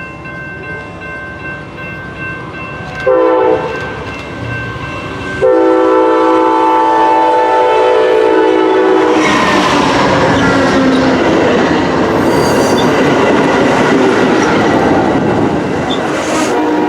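Locomotive air horn sounding a short blast, then a long blast of about four seconds. The train then passes close by, with the loud rumble of wheels on the rails.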